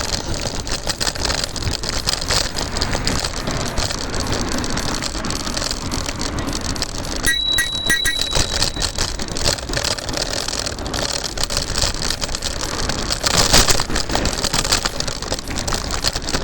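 Scooter wheels rolling over asphalt, with a steady rattling rumble from the deck and wind on the microphone. A brief high-pitched tone sounds about seven seconds in.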